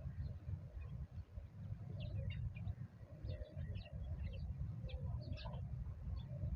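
Birds calling outdoors: a run of short high chirps from about two seconds in until past five seconds, with lower calls mixed in, over a steady low rumble.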